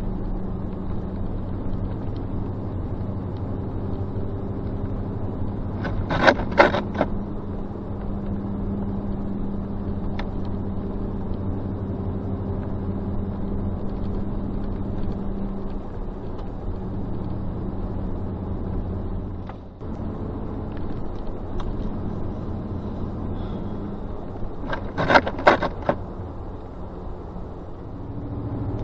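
Car engine and tyres running steadily, heard from inside the cabin while driving slowly over snow and drifts. Twice, at about six seconds and again about twenty-five seconds in, comes a brief scraping clatter.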